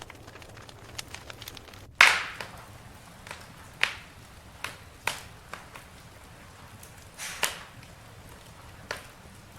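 Campfire crackling: a sharp, loud pop about two seconds in, then a string of smaller pops and snaps over a faint steady background.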